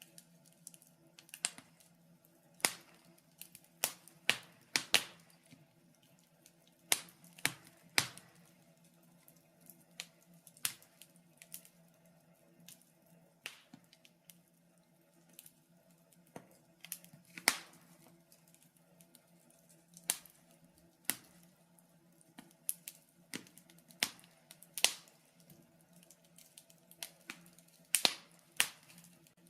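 Wood fire crackling: irregular sharp pops and snaps, about one or two a second, over a faint steady hum.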